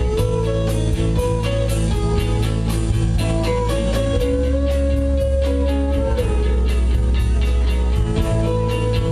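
Live rock band playing an instrumental passage. An electric guitar holds long sustained lead notes that slide up and back down, over sustained bass and a steady cymbal beat of about four to five ticks a second.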